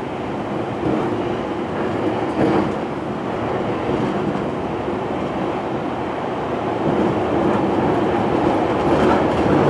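Running noise heard inside a JR E257-500 series limited express motor car travelling through an underground tunnel: a steady rumble of wheels on rail, with a couple of light clicks.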